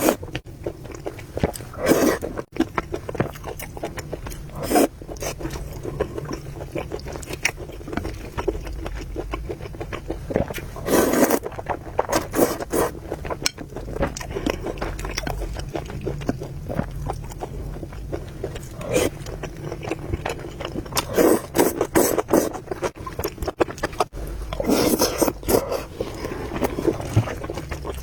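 Close-miked eating of noodles and soup: steady chewing and many small clicks, with several louder slurps spread through, and utensils scraping the bowl.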